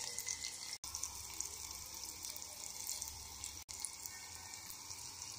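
Chopped onions, garlic and dried red chillies sizzling in hot oil in an aluminium pot: a steady hiss with small crackles, breaking off for an instant twice.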